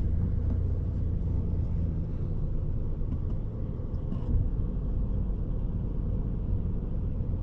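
2002 Ford Ranger idling: a steady low rumble that deepens slightly about four seconds in.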